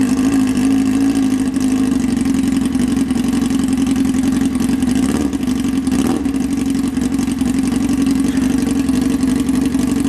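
A Formula SAE team's new engine on its first run, fitted with its stock intake, running loud and steady at one constant speed with no revving.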